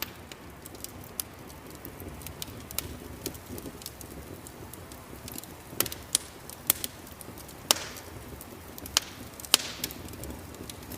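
Wood fire crackling: irregular sharp pops and snaps over a low steady rumble, with a few louder pops in the second half.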